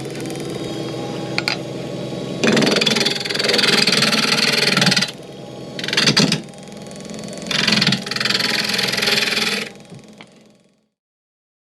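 Wood lathe running with a steady hum, with two bouts of a turning tool cutting the spinning wood blank, each two to three seconds long, and a sharp knock between them. All sound stops abruptly near the end.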